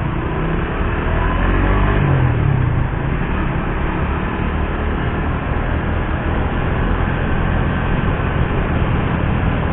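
Suzuki GSX-R150's single-cylinder four-stroke engine running under way, with wind and road noise; the engine pitch climbs over the first two seconds or so as it revs up, then it runs on steadily.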